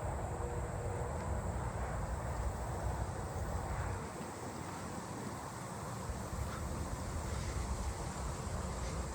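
Daytime insect chorus of meadow katydids and crickets: a steady, high, continuous trilling. A low rumble underneath fades about four seconds in.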